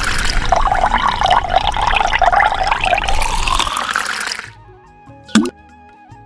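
Water gushing and splashing loudly for about four and a half seconds, then cutting off abruptly. Light background music follows, with a single sharp click about a second later.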